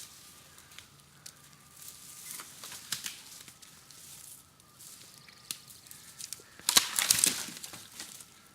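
Woody brush and branches cracking and rustling as saplings are hacked with a golok. There are scattered sharp snaps, then a louder, dense burst of crackling about seven seconds in.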